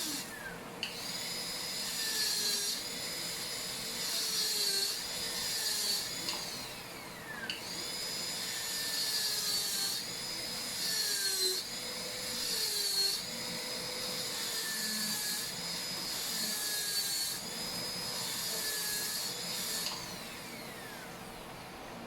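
High-speed dental air-turbine handpiece whining as its bur cuts a Class II cavity preparation in a lower molar. The pitch wavers and dips as the bur meets the tooth, and the whine falls away as it winds down near the end.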